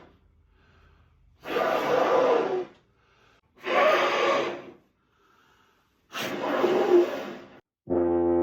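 Air blown through a tuba's lead pipe without buzzing, three long rushes of breath of about a second each, to clear trapped moisture that makes the horn bubble. Near the end the tuba sounds a steady low note.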